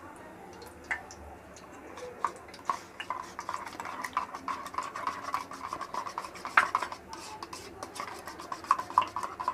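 A metal utensil stirring and scraping in a kadai, with irregular clinks and taps against the pan that become denser and steadier about two seconds in.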